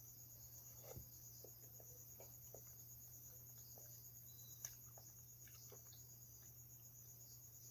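Faint, steady trilling of crickets, with a few soft scattered clicks; one click a little past the middle is slightly louder.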